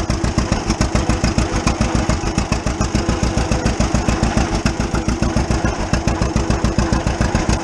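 1935 unstyled John Deere A's two-cylinder engine running under load as the tractor drives along: an even, rapid popping exhaust beat, the classic 'Johnny Popper' sound, running pretty good.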